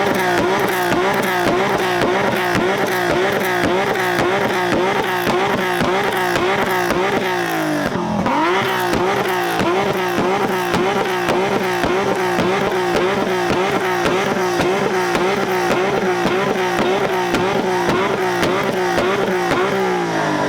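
Car engine revved hard and held against its rev limiter, the revs bouncing up and down about two to three times a second. About eight seconds in the revs fall off briefly and climb straight back onto the limiter.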